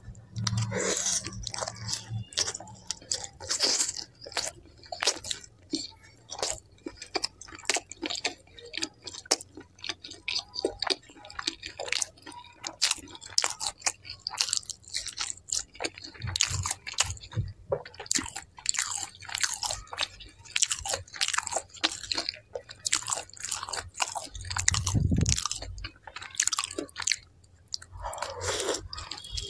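Close-miked chewing and biting of butter naan and paneer: a fast, continuous run of mouth clicks and crunches.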